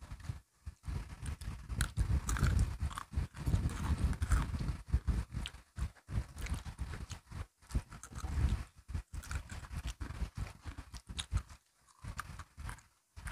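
Crunching and chewing of crisp biscuit sticks: irregular crackly crunches over dull low thuds, with short pauses between bites.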